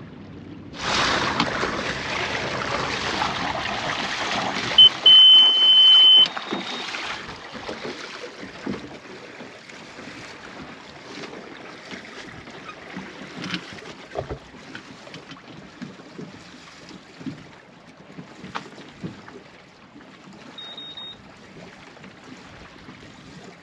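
Chart plotter alarm: a loud, steady high beep lasting about a second and a half, around five seconds in, and a short fainter beep near the end. Under it, a loud rushing noise starts about a second in and dies away by about seven seconds.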